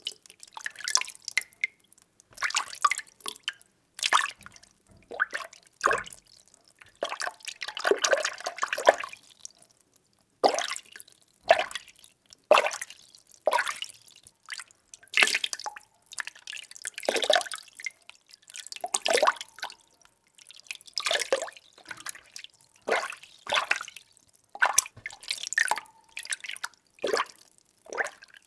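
Water being stirred, with short splashing swirls coming in an uneven rhythm about every second or two, and one longer swirl near the start of the second third.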